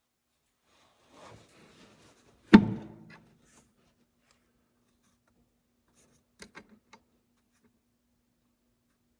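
Tools and parts being handled during repair work: some light rustling, then a single loud clunk about two and a half seconds in that rings briefly, followed by a few light clicks.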